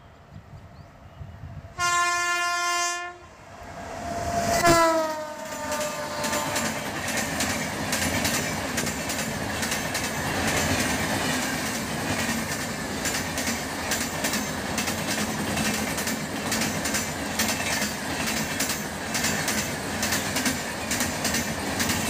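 A passing passenger train's locomotive horn sounds one steady blast about two seconds in, then a second blast whose pitch drops as the locomotive passes close by. A long rake of passenger coaches then runs past at speed, wheels clattering rhythmically on the rails.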